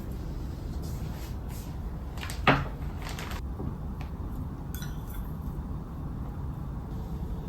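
Household handling sounds from kitchenware: a few light clicks and one sharp knock that rings briefly about two and a half seconds in, like a dish or cupboard being handled.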